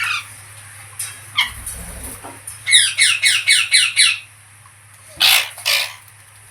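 Pet green parrot calling: a few single calls, then a quick run of about seven short shrill squawks, then two longer harsh screeches near the end.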